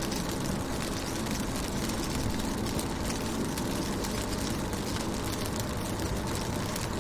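Steady rain falling on a car, a dense patter of drops on the window over a constant low rumble.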